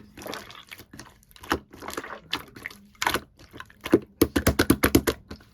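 Clear slime being squished and pressed by hand, making irregular wet clicks and air-bubble pops, with a quick run of rapid crackling pops a little after four seconds in.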